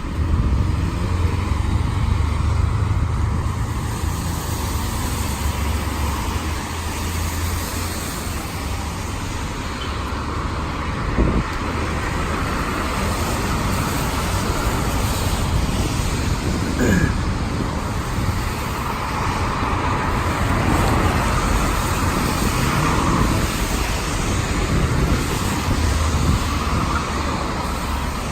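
Steady rain with road traffic passing, cars rumbling by on wet pavement; a brief knock sounds about 11 seconds in.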